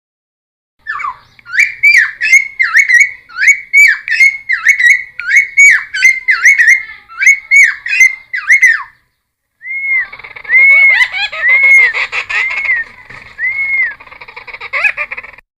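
A cucak timor, a friarbird, singing: a fast run of repeated sharp whistled notes, about two a second, then after a short break a series of arched whistles over busier chattering notes.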